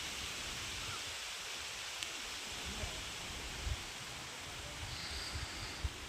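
Steady outdoor ambience: an even hiss with irregular low thumps of wind on the microphone and a single faint tick about two seconds in.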